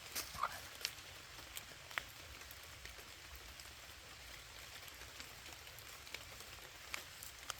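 Rain falling: a steady hiss with irregular sharp drips ticking through it.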